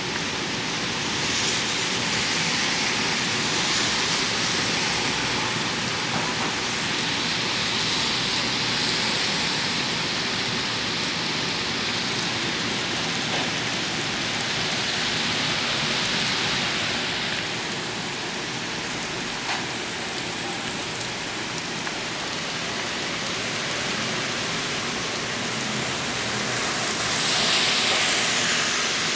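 Steady rain falling on wet pavement and parked cars, an even hiss that grows louder for stretches, most of all near the end.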